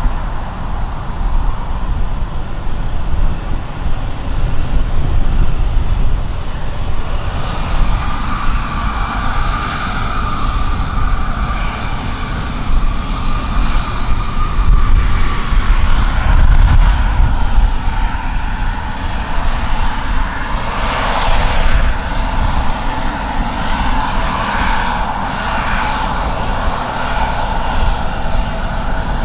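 Airliner engines running loud: a heavy low rumble, joined about a quarter of the way through by a whine whose pitch wavers as the aircraft passes.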